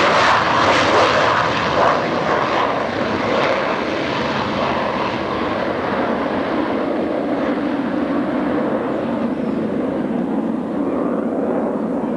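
Blue Angels F/A-18 Hornet's twin turbofan jet engines, loud at first and then receding, the hiss of the high end fading away over the next few seconds while a lower rumble stays.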